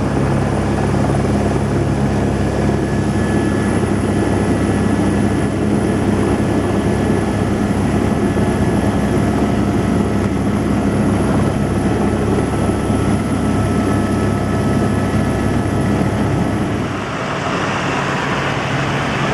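Helicopter in flight: a steady, loud rotor and engine drone with a thin high whine above it. About seventeen seconds in the sound shifts, the whine fades and a hissier noise takes over.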